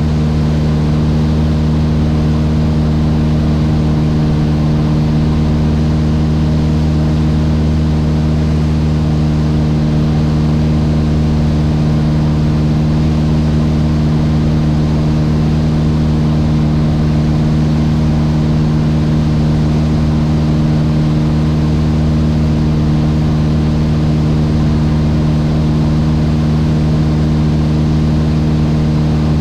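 Mooney M20J's four-cylinder Lycoming engine and propeller droning steadily in the cabin, a low even hum that holds one pitch throughout.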